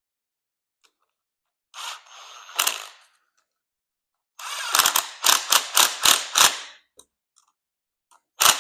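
Ratchet with an 8 mm socket tightening bolts in short bursts of clicking: one burst about two seconds in, a run of about six quick pulses in the middle, and a short burst near the end.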